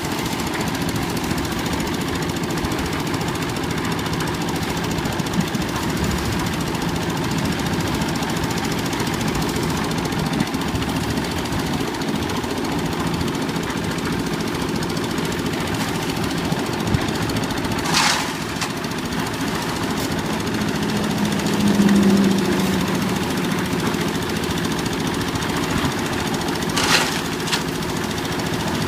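Old diesel engine of a concrete mixer machine running steadily with a knocking, clattering beat. Twice in the second half a brief hissing or scraping noise cuts through.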